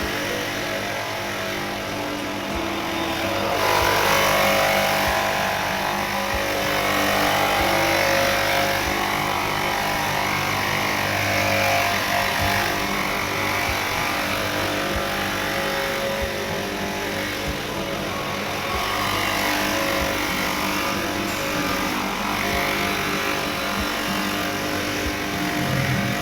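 A small engine running steadily, its pitch swelling and dropping every few seconds as the load changes.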